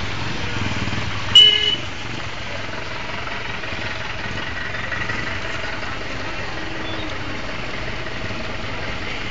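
Steady road-traffic background with one short vehicle horn toot about a second and a half in.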